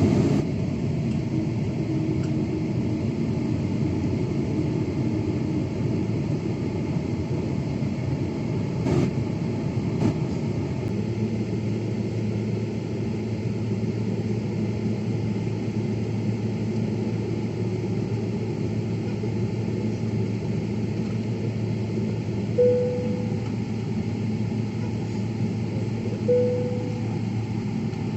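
Airliner cabin noise: the jet engines and air systems give a steady rumble while the plane waits for takeoff, with a low, even hum settling in about a third of the way through. Near the end, two short tones sound a few seconds apart.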